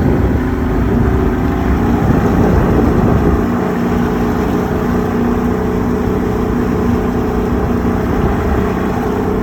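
An engine running steadily at a constant speed, with a heavy low rumble underneath.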